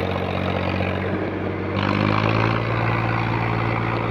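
Tractor engine running steadily, then revving up about two seconds in and holding the higher speed.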